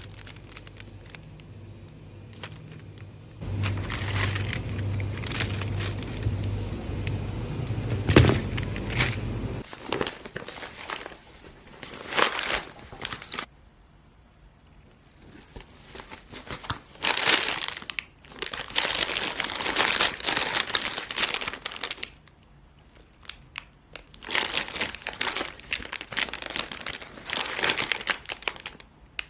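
Packaging being handled, crinkling and rustling in several bouts separated by short pauses. A low steady hum sits under the first third and stops about ten seconds in.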